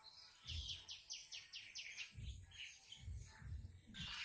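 Small bird chirping: a quick run of about seven high chirps starting about half a second in, then scattered calls. Several low thumps or rumbles are mixed in.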